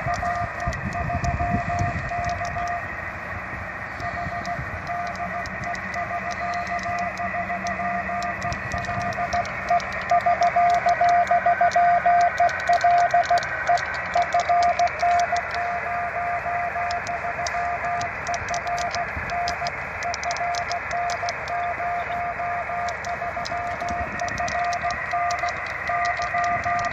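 Amateur radio receiver audio: a Morse code (CW) tone keyed on and off over the receiver's steady hiss. This is a 78 GHz rain-scatter signal; the tone swells markedly about ten seconds in and fades back down as the scatter from the rain cell changes.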